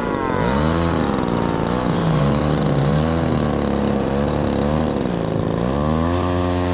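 Radio-controlled model airplane engines flying overhead, their pitch rising and falling again and again as the planes pass and change throttle, with one higher engine note falling slowly over the first two seconds.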